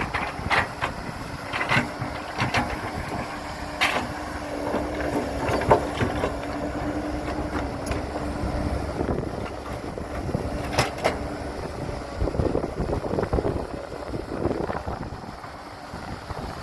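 Heavy earthmoving machinery running, with a steady whine for much of the time and several sharp metallic clanks.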